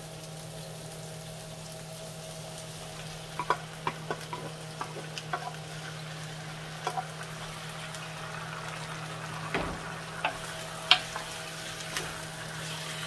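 Onion and garlic sizzling in hot oil in a glazed clay cazuela as sliced tomatoes are tipped in from a clay bowl and stirred with a wooden spoon. Scattered clicks and knocks of the bowl and spoon against the pot sound over the steady sizzle and a low steady hum.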